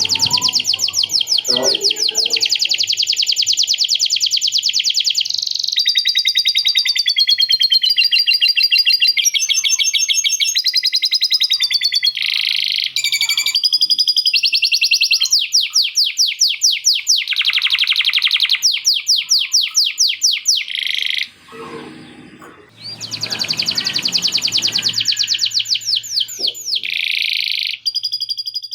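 Male canary singing a long, continuous song of fast trills and rapidly repeated notes, switching phrase every second or two, with lovebird-style chattering phrases learned into the song. The song drops briefly about 21 seconds in, then resumes.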